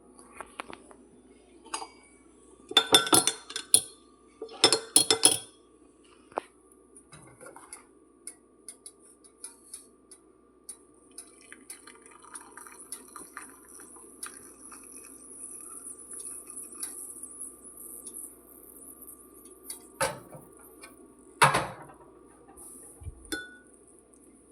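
Metal kitchenware clinking against glass as boiled masala chai is strained from the pot into a cup: two sharp clusters of clinks, a soft trickle of pouring liquid, then two more knocks near the end, over a low steady hum.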